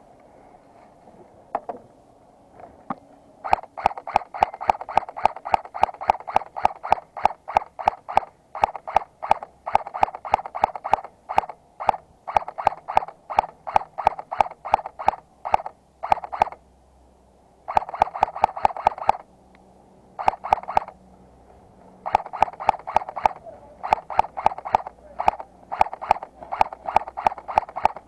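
Airsoft gun firing on full auto: several bursts of rapid, evenly spaced shots at about eight to ten a second, separated by short pauses, starting a few seconds in.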